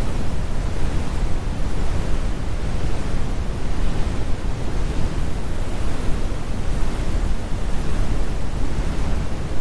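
Steady, deep brown noise: a continuous synthetic rumble weighted to the low end, with the high frequencies rolled off.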